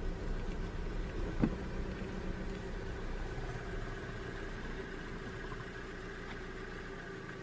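A vehicle's engine idling steadily, with a single short knock about a second and a half in.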